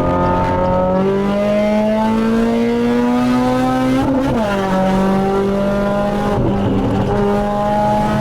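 Tuned VAZ (Lada) car engine accelerating hard, its pitch climbing steadily, falling sharply at a gear change about four seconds in, then climbing again.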